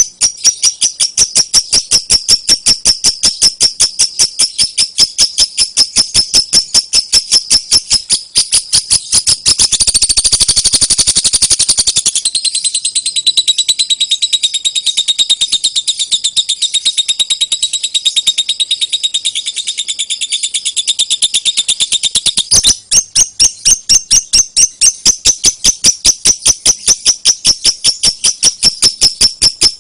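Lovebird 'ngekek': a long, unbroken chattering trill of rapid high-pitched notes, several a second. It quickens into a denser rattle about ten seconds in, shifts to a thinner, more whistled run for about ten seconds, then returns to the steady chatter.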